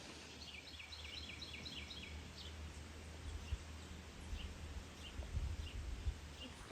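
A bird chirping: a quick run of about ten short high chirps in the first two seconds, then single chirps about once a second, over a faint low background rumble.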